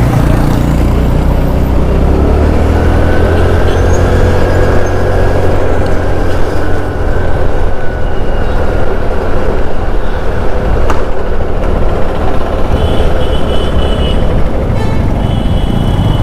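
Motorcycle riding through town traffic: the engine note rises as it accelerates in the first few seconds, under heavy wind rush on the rider's microphone.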